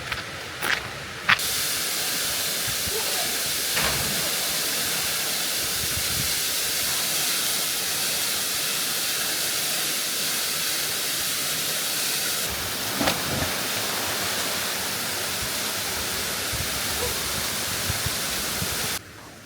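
Waterfall rushing: a steady, loud hiss of falling water that starts abruptly about a second in and cuts off just before the end.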